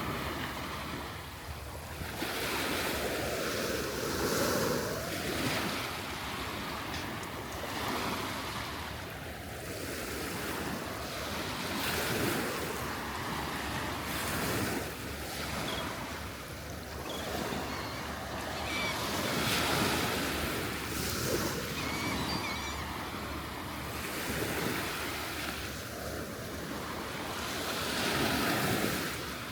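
Surf breaking and washing up on a beach, swelling and ebbing every few seconds, with some wind on the microphone.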